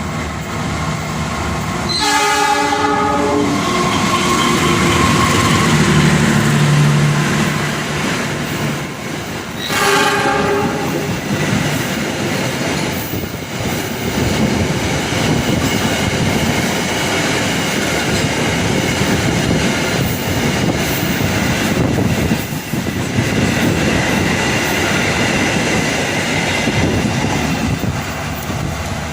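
Train horn sounding two blasts, one about two seconds in and another about ten seconds in, over the steady rumble and clatter of a moving passenger train's wheels on the rails.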